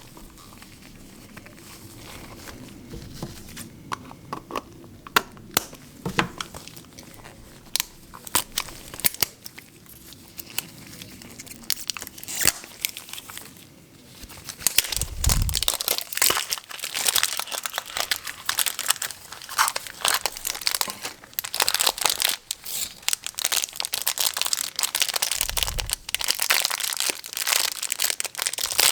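Plastic packaging of surprise erasers being crinkled and torn open by hand. Light clicks and taps come first; about halfway in, a dense crinkling takes over, broken by two dull thumps.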